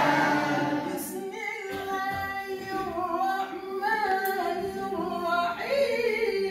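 One voice chanting melodic Quranic recitation in a maqam, unaccompanied, with long held notes that bend and slide in pitch and a rise to a higher note near the end.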